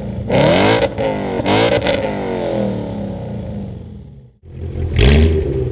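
V8 engine with an aftermarket performance exhaust revved in two quick blips, each falling back and dying away. After a brief silence about four seconds in, a second V8 starts revving.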